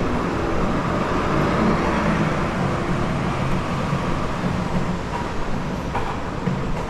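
Steady low rumble of moving vehicles: a dense city-transit din with no speech.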